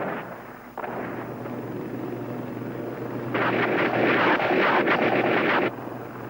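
Military helicopter running with a steady low hum, with a louder stretch of weapons fire in the middle that starts and stops abruptly.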